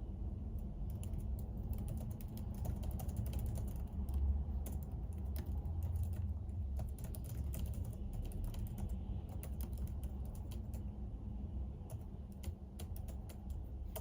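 Typing on a computer keyboard: quick, irregular runs of key clicks with short pauses between bursts, over a steady low background hum.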